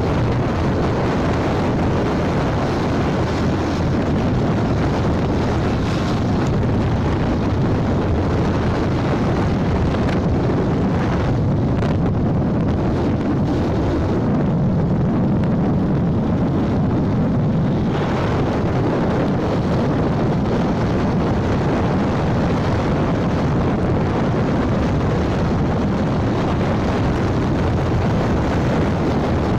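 Steady rush of wind on the microphone over the road and engine noise of a moving motorcycle.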